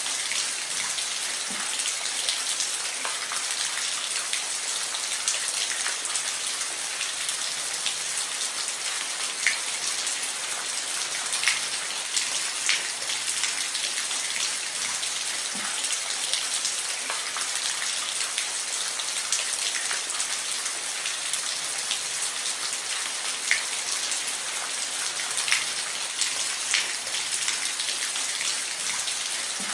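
Steady rain falling on a roof: an even hiss with many scattered, sharper drop hits.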